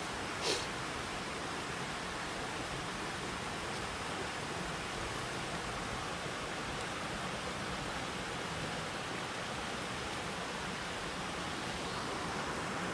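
Steady rushing of running water, with one short sharp click about half a second in.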